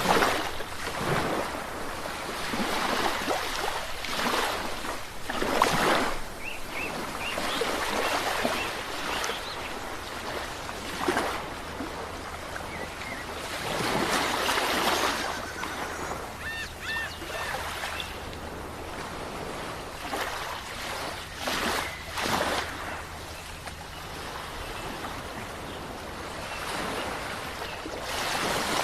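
Sea waves breaking and washing onto a shore, surging and ebbing every few seconds. A few brief high chirps come through the surf around the middle.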